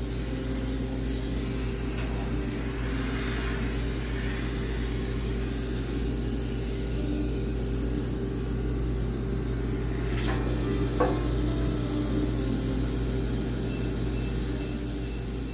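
High-pressure steam cleaner spraying to sanitize a washing machine: a steady hiss of steam over a low hum. The hiss grows stronger about ten seconds in, with a short click soon after.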